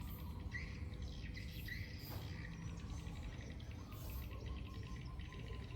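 Small birds giving short chirps every second or so, over a steady low background rumble.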